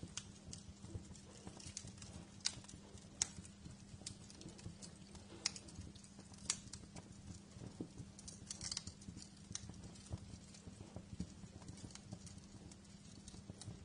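Wood fire crackling in a fireplace: irregular sharp pops and snaps, with a quick run of crackles about two-thirds of the way through, over a low steady hum.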